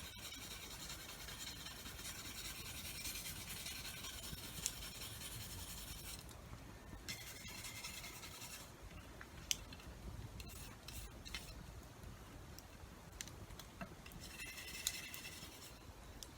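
Rubbing and scraping strokes, as of a tool being worked over by hand, stopping about six seconds in and returning briefly near the end, with scattered small sharp clicks in between.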